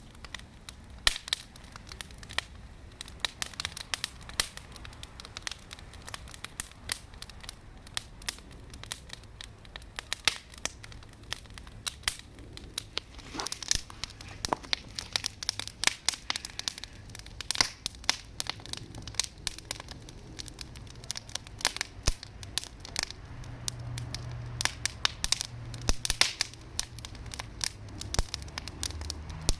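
Wood campfire crackling and popping, with irregular sharp snaps coming at random throughout.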